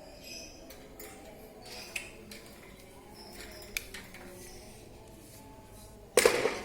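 A few light clicks, then a short, loud clatter near the end, like small hard objects knocking together.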